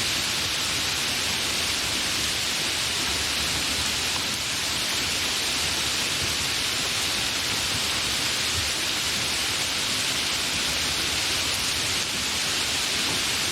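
Steady, fairly heavy rain falling, a continuous even hiss with no thunder.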